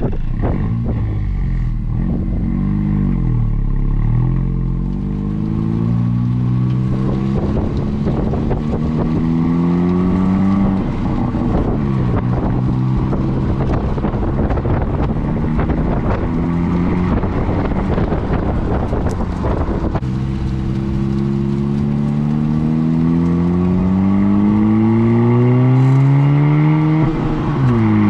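2017 Honda Civic Si's stock exhaust under acceleration while driving: the 1.5-litre turbocharged four-cylinder rises steadily in pitch through each gear and drops sharply at every upshift, four times.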